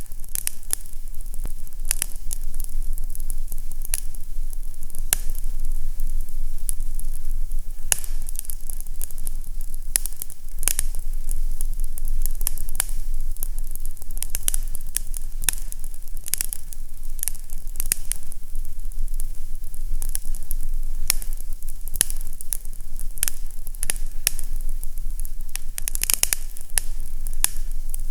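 Fireplace crackling: frequent irregular sharp pops and snaps over a steady low hum.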